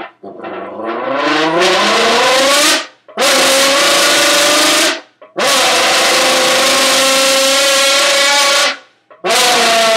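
Mouth-made V10 engine impression blown into a large Monster Energy can: a rising rev over the first few seconds, then long steady held notes, each cut off by a short breath gap about three, five and nine seconds in.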